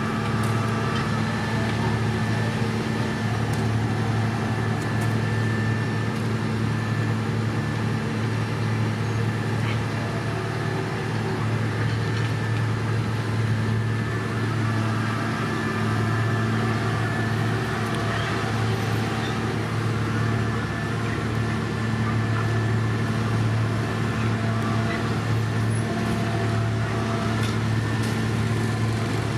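Heavy diesel engine of road-construction machinery running steadily at constant speed, a low even drone with a few faint ticks.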